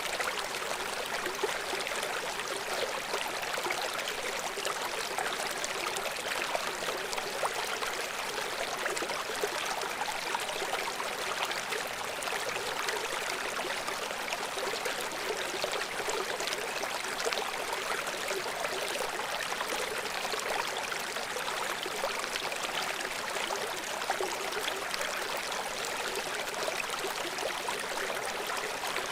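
River water running over rocks below a waterfall: a steady rushing with fine splashing and trickling.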